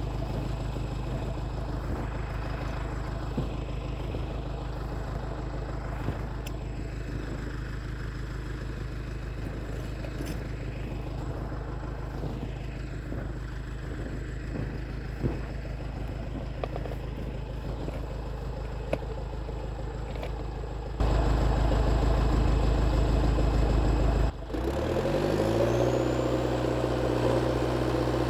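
IH TD8E bulldozer's diesel engine running. A steady low hum with scattered faint ticks becomes abruptly louder about three quarters of the way in. After a brief break, the engine's pitch drops and settles into steady running.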